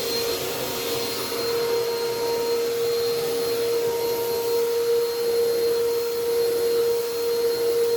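Vacuum cleaner motor running steadily at full speed, a constant hum with a high whine over the rush of air.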